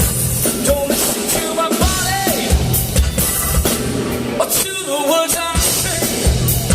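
Live rock band playing with a steady drum-kit beat and a singer's voice.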